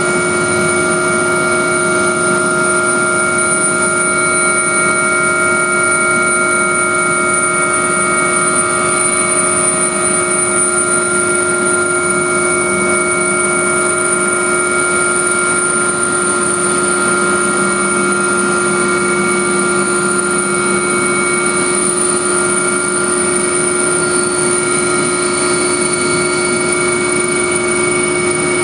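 AgustaWestland AW139 twin-turboshaft helicopter heard from inside the cabin during takeoff: a loud, steady engine and rotor rush with several constant high whining tones from the turbines and gearbox over it.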